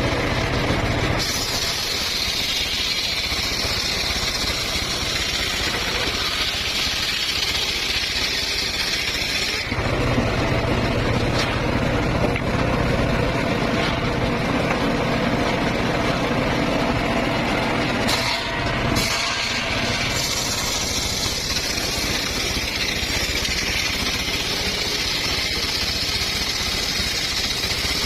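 Homemade circular sawmill running steadily, its sound changing a few times as it works.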